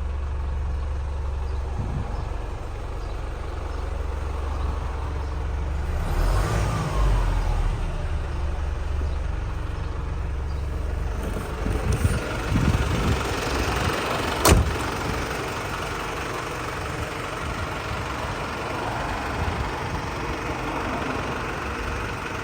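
Volvo FL240 truck's diesel engine running at idle with a steady low hum. A single sharp knock comes about two-thirds of the way through.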